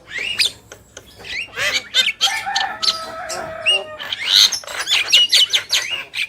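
Javan mynas calling: a fast, busy run of harsh squawks, chattering notes and quick rising whistles. About two seconds in comes a longer note of several tones, held for roughly two seconds under the chatter.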